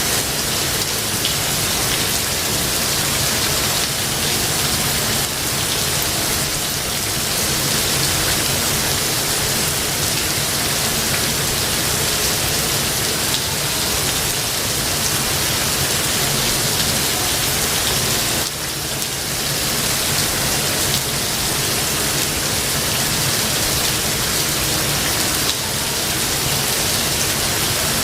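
Steady rain falling, a dense even hiss of drops, with a brief dip in level about two-thirds of the way through.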